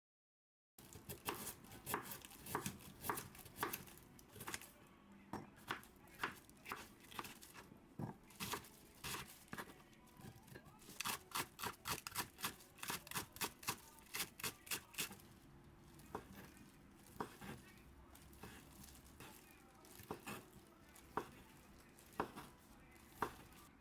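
Ingredients for a sausage-and-vegetable stir-fry being cut: a long run of sharp cutting strokes, coming faster in the middle, then slowing to scattered strokes.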